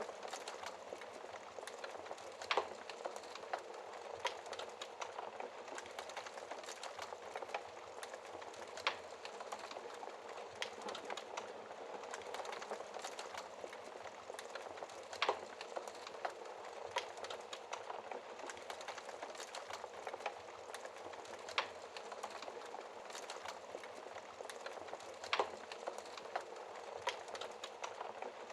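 Wood fire burning in a fireplace: a steady hiss of flames with constant crackling and occasional sharper pops from the logs, about five louder ones spread across.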